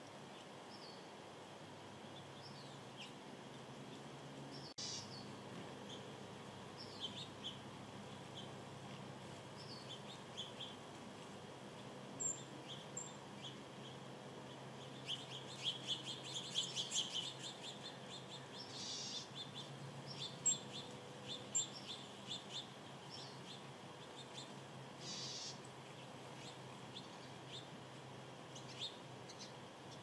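Small birds chirping faintly: short separate chirps at intervals and a quick flurry of rapid chirps around the middle, over a faint steady hiss.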